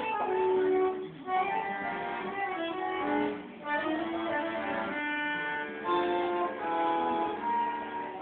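Bandoneon playing a tune in held, reedy notes and chords, with short breaks about a second in and again around three and a half seconds in.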